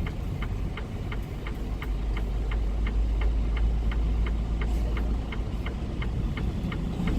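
Semi truck's diesel engine running with a steady low rumble inside the cab, while a turn signal clicks evenly, about three clicks a second.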